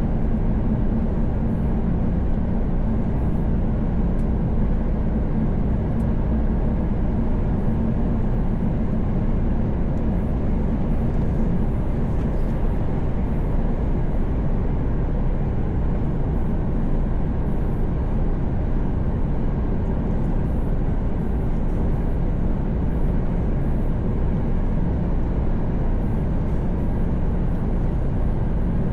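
Mercedes Actros truck cruising at highway speed: a steady engine drone under constant tyre and road noise.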